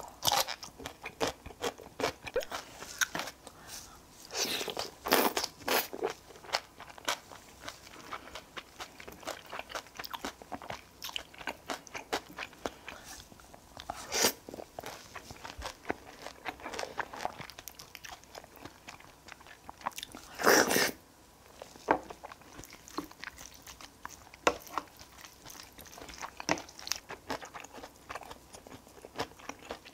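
Close-up eating: steady chewing and crunching, with many short crisp bites and a few louder ones spread through. A person is eating curry rice with crunchy chonggak (altari) radish kimchi and fried chicken karaage.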